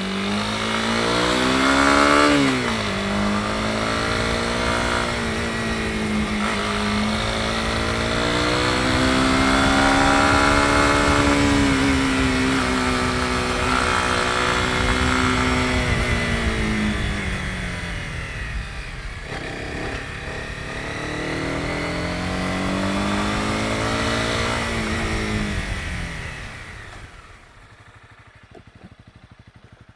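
Honda CB250R's 250 cc single-cylinder engine under way, revs rising and dropping through throttle changes and gear shifts. Near the end the throttle closes and the engine falls off to a quiet low putter as the bike slows.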